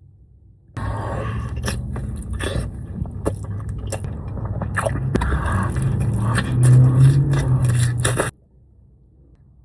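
Eating sounds: a utensil scraping and clicking in a takeout food container, with biting and chewing, over a steady low hum. The sound cuts in abruptly about a second in and stops abruptly near the end.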